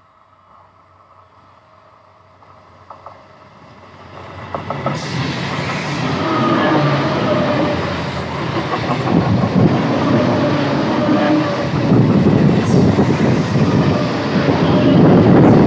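ICF-built electric multiple unit (EMU) suburban train approaching and then passing close by. It is faint at first and grows loud about four seconds in, with a dense rumble and fast clattering of wheels on the rails.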